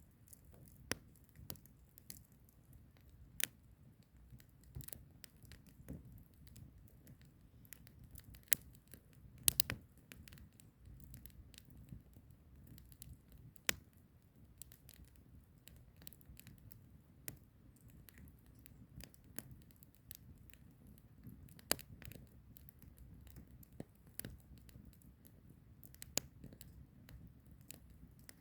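Firewood fire crackling: irregular sharp pops and snaps from the burning logs over a low, soft rumble of flame, with a few louder pops, the strongest around ten seconds in, fourteen seconds in and twenty-two seconds in.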